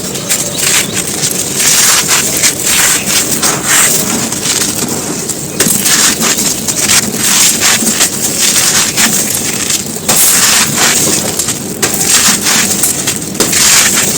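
Dry crumbly floor chunks being crumbled and crushed, with a dense, continuous crackling crunch and a few brief lulls.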